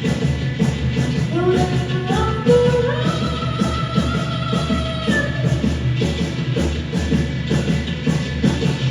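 Rock band playing: a steady drum beat under held melody notes that climb in steps a second or two in.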